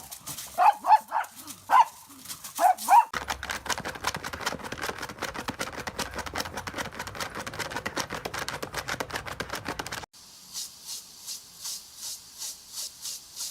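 A dog barking about six times in quick short barks. A long stretch of fast, crackly clicking follows, then regular high hissing pulses about three a second.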